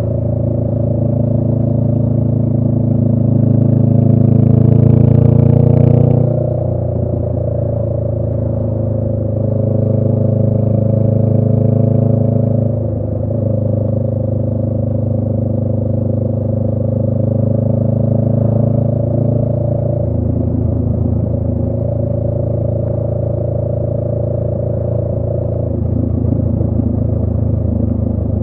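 2018 Honda Rebel 500's parallel-twin engine running through a Radiant Cycles Shorty GP short aftermarket exhaust while riding. It pulls harder and rises in pitch for the first few seconds, drops off sharply about six seconds in as the throttle is eased, then runs steadily with brief dips around thirteen and twenty seconds.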